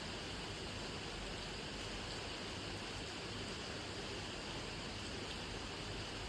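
Steady rain, an even hiss of falling drops with no separate patters standing out.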